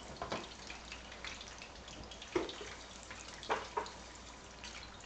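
Egg rolls frying in a pan of hot oil: a steady sizzle with a few short sharp clicks scattered through it.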